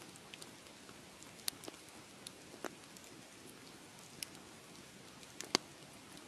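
Wood fire crackling: a soft, steady hiss with irregular sharp pops and snaps, the loudest pop about five and a half seconds in.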